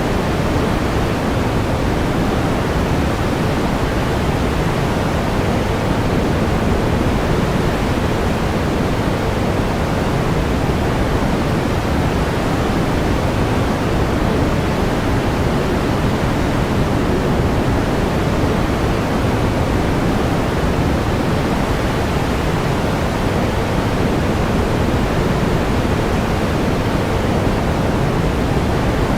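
Pink noise: a steady, even hiss weighted toward the low end, constant in level, with no tones or breaks.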